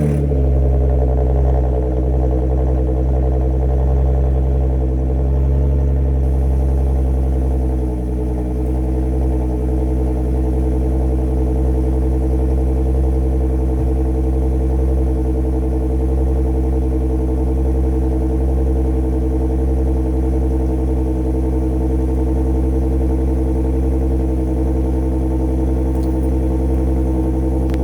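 A 2015 Audi A6 3.0-litre engine idling steadily just after a cold start, its exhaust straight-piped with the muffler deleted. The idle dips slightly about eight seconds in.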